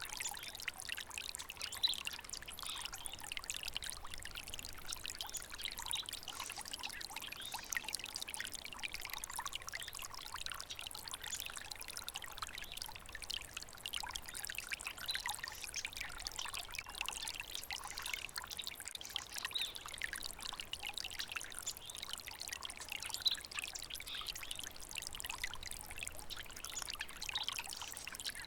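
Small stream of water trickling and babbling over rocks, a steady splashing flow with many small bright splashes.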